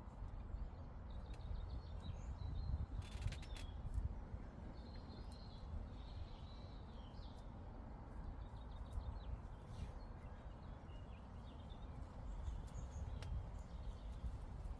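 Meadow ambience: a steady low rumble of breeze with faint, scattered bird chirps and a few soft clicks, the strongest about three seconds in.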